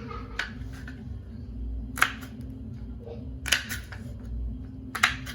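Vegetables and containers being handled while packed into a fridge: about four short, sharp handling noises a second or so apart, over a steady low hum.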